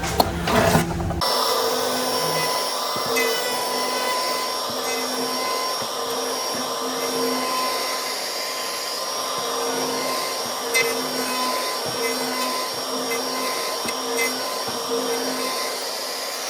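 A small electric motor running steadily at one speed with a constant high whine, as from a power tool in a woodworking shop.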